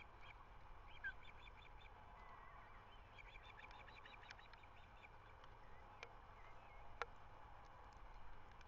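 Faint bird calls: two runs of short, rapid, high chirps, with a few single notes between them. Two sharp clicks come near the end, the second the loudest sound.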